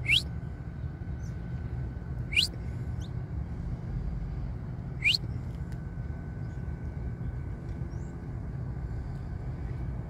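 Birds calling: three loud, brief whistles that each sweep sharply upward in pitch, about two and a half seconds apart, with faint short chirps between. A steady low rumble runs underneath.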